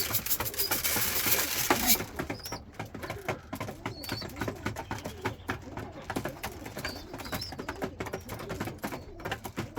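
Pigeons cooing in a loft, with a few short high squeaks from young birds and many small clicks and taps. A rushing noise stops suddenly about two seconds in.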